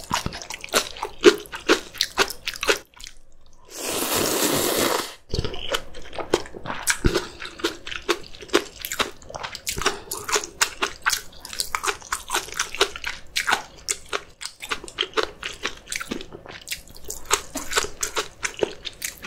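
A person eating close to the microphone: rapid crunches and chewing of crisp kimchi, many sharp crunches a second. About four seconds in comes one loud rushing burst lasting over a second.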